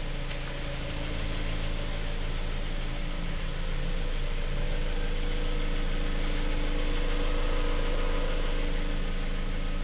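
2017 Jeep Cherokee Trailhawk engine idling steadily, growing a little louder toward the end.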